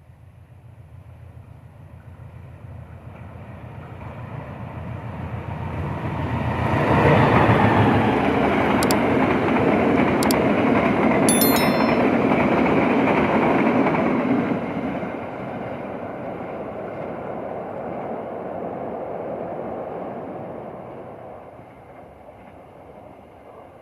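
The Pasundan passenger train passing close by. It is heard approaching, and its locomotive goes by about seven seconds in. The coaches rumble past at full loudness until about fourteen seconds in, then the train runs on at a lower level and fades away near the end.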